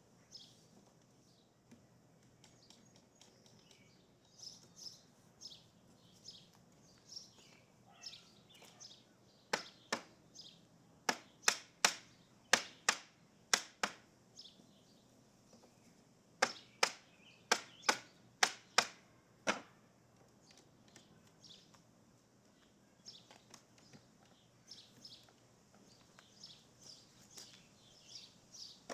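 Two runs of hammer blows, about eight sharp strikes each at two or three a second, driving nails into the wooden loam screen frame. Birds chirp faintly throughout.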